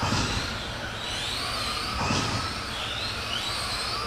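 Electric motors of several radio-controlled Euro semi trucks racing round a track, their high whines rising and falling in pitch as the drivers work the throttle.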